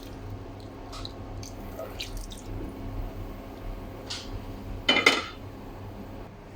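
Kitchen cooking sounds: a few light clinks and scrapes of cookware and utensils over a steady low hum, with one louder clattering rattle lasting about half a second, about five seconds in.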